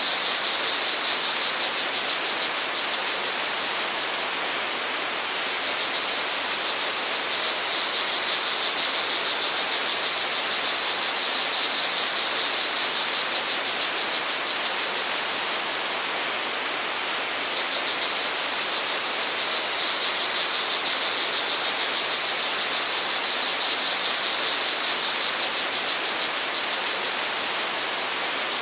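Steady rush of falling water from a waterfall, with a high, fast insect trill from crickets over it that drops away twice for a couple of seconds and returns.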